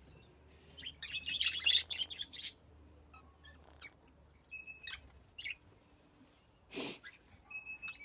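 Small birds chirping and tweeting: a dense run of high chirps about a second in, then scattered short chirps and whistled notes. A single brief harsh noisy burst comes near the end.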